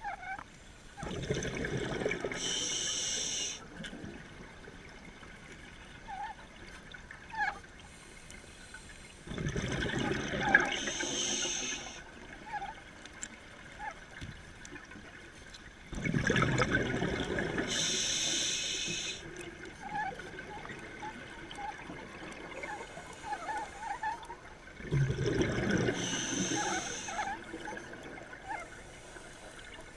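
Scuba diver breathing through a regulator underwater: four breaths about eight seconds apart, each a rush of exhaled bubbles lasting two to three seconds and ending in a hiss. Faint small clicks and pops between the breaths.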